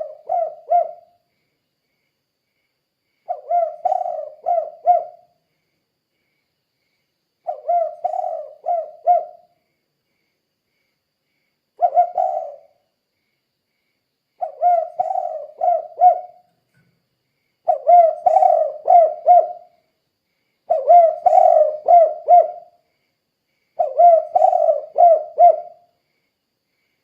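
Spotted dove (tekukur) cooing in the song style keepers call 'kuk 2'. Each phrase is four or five low coos in quick succession, and the phrases come about every three to four seconds with silence between.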